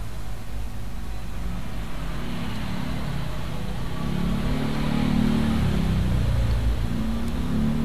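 A motor engine running with a low rumble, growing louder in the middle and easing slightly near the end.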